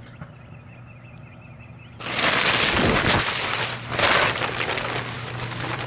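Microwave oven running with a low hum. About two seconds in, a loud crackling noise starts abruptly and carries on: glow sticks popping and bursting inside the oven as they overheat.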